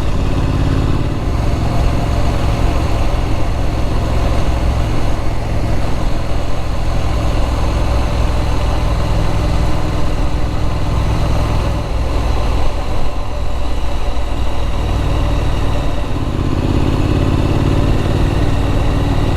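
Triumph Street Scrambler's 900 cc parallel-twin engine running while riding, heard from on the bike. The engine note dips about twelve seconds in and picks up again about sixteen seconds in.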